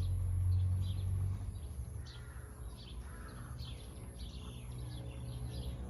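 Birds chirping and calling at a farm in the morning, short high notes scattered throughout, with a low steady hum that fades about a second and a half in.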